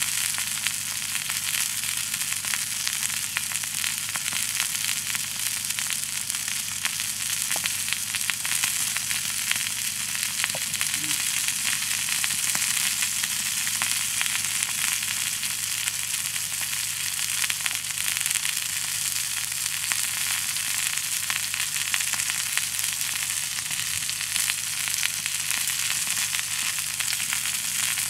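Bacon-wrapped chicken and potatoes sizzling steadily in a cast iron skillet over a campfire, with fine crackling throughout.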